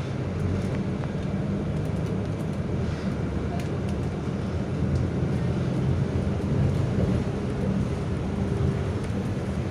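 Scania K320 UA city bus's diesel engine running, heard from inside the bus as a steady low drone under cabin noise, with a few light clicks and rattles.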